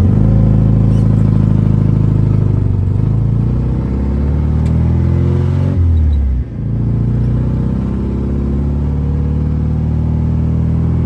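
Widebody BMW E36's engine and exhaust running loud while driving, heard from inside the car. The engine note slides down, dips briefly about six seconds in, then picks back up and holds steady.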